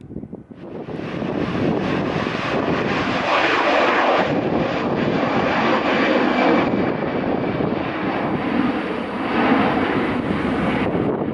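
Airliner's engines at takeoff power: the noise swells over the first second and a half, then holds steady and loud, with a faint steady whine through it.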